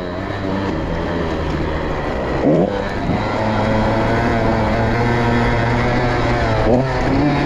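Motorcycle engine running hard under load, its pitch climbing slowly, with brief breaks about two and a half seconds in and again near the end.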